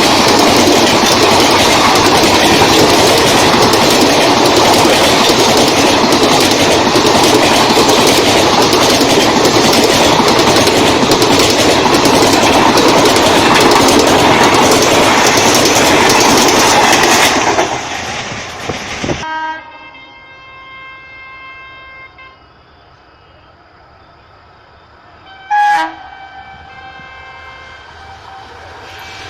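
Indian Railways train passing at speed at close range: a loud, steady rush of wheel and wind noise with clatter, cutting off abruptly about nineteen seconds in. Then a much quieter stretch with a faint steady tone, broken by one short train horn blast near the end.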